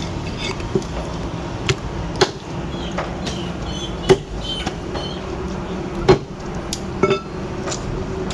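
Meat cleaver chopping chicken on a chopping block: sharp, irregular strokes, about six loud ones, over a steady background hum.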